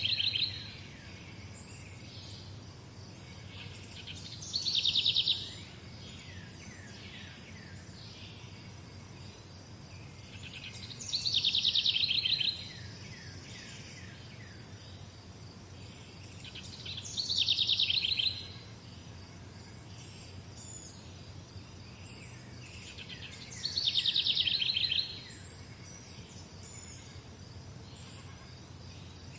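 A songbird singing the same short, rapid trilled phrase over and over, about every six seconds, each phrase falling slightly in pitch, over a steady low background hum.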